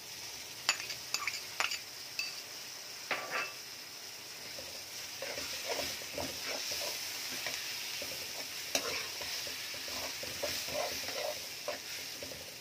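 Chopped tomatoes and green chillies sizzling in hot oil with fried onions while a metal slotted spoon stirs them, scraping and clicking against the metal pan. There are a few sharp clicks in the first seconds, then steady scraping strokes over the sizzle.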